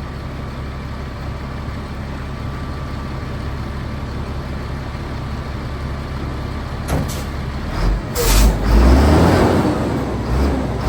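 Freightliner FL80 truck's diesel engine running steadily at idle. About eight seconds in there is a short, sharp hiss of air, and then the engine's low rumble grows louder.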